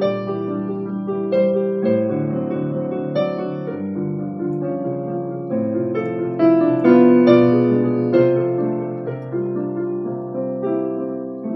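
Piano playing a passage of a classical art-song accompaniment, with a steady run of struck notes and chords.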